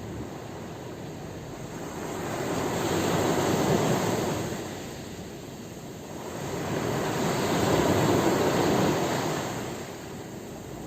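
Sea waves breaking and washing in: a rushing noise that swells and fades twice, loudest about four seconds in and again about eight seconds in.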